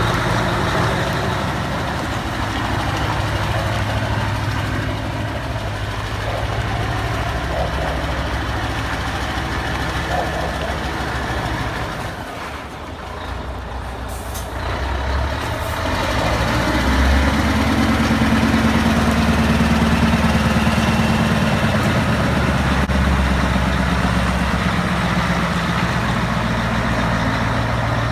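Scania bonneted truck's diesel engine running, easing off around the middle, with short air hisses, then pulling harder with the engine note rising from about two-thirds of the way in.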